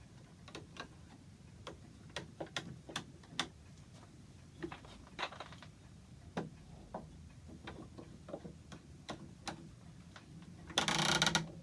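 Light, irregularly spaced clicks and knocks of wooden parts being handled, then a short, louder scraping rustle near the end.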